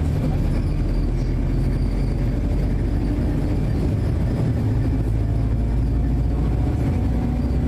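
Inside a moving bus: a steady low rumble of engine and road noise.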